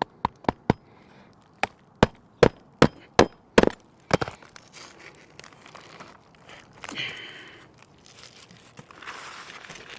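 Hammer driving roofing nails through old, stiff asphalt shingles: three quick taps, then a run of about seven sharp blows roughly two and a half a second, followed by a shingle scraping and rustling as it is handled.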